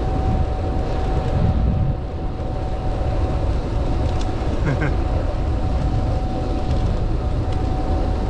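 Wind rushing over the microphone and tyre rumble from a bicycle riding along a trail, with a thin steady whine underneath. Two short high chirps about halfway through.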